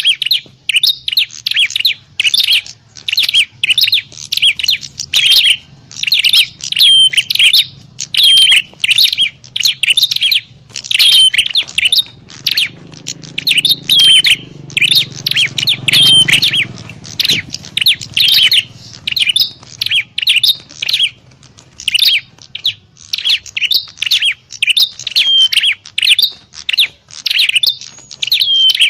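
Prenjak klawu (a prinia) calling in a rapid, unbroken stream of sharp, high chirps, several a second. This is the bird's call as used for luring (pikat) wild prenjak.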